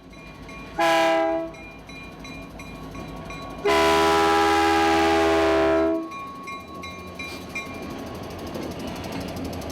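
Diesel locomotive air horn sounding a short blast and then a longer blast of about two seconds, over the low rumble of the train. A faint high ding repeats about four times a second underneath.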